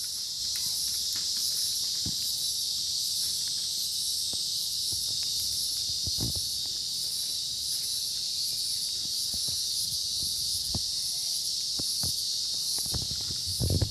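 Steady, high-pitched chorus of insects with a faster pulsing shimmer above it, and scattered faint clicks. A few louder low thumps come near the end.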